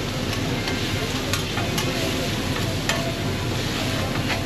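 Food sizzling in a hot pan, with metal utensils clinking and scraping against it several times.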